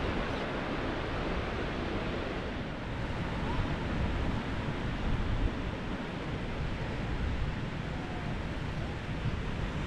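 Sea surf washing steadily on the beach, with wind buffeting the microphone.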